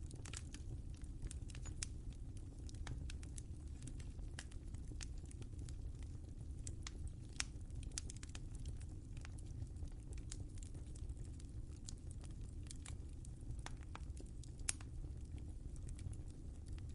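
Wood fire crackling in a fireplace: irregular sharp pops and snaps over a steady low rumble of the flames, with two louder pops about a third of the way in and near the end.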